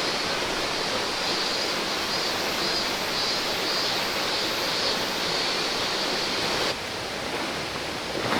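River water rushing steadily over rocks. About seven seconds in, the sound changes abruptly to a slightly quieter flow.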